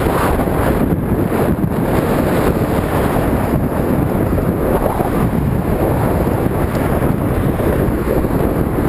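Wind buffeting the microphone of a moving bicycle, a loud, steady low rumble.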